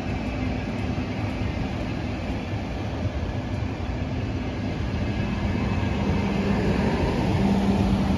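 Frecciarossa high-speed electric train rolling slowly past the platform: a steady low rumble with a low hum that drops in pitch about halfway through and grows a little louder near the end.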